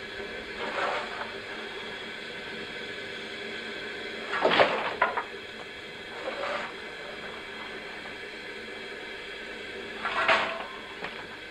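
Short bursts of hissing steam from a Beyer Peacock narrow-gauge steam locomotive, four times over a steady background hiss; the one about four and a half seconds in is the loudest.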